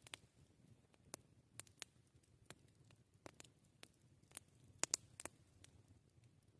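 Campfire crackling: irregular sharp pops and snaps of burning wood, a few a second, the loudest two close together about five seconds in.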